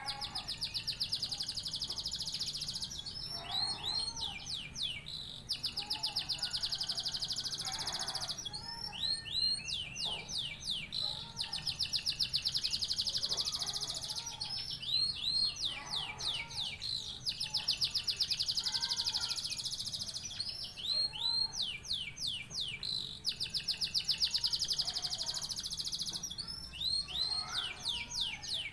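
Domestic canary singing continuously: long, fast, high trills alternating with short runs of swooping whistled notes, the phrase cycle repeating about every four seconds.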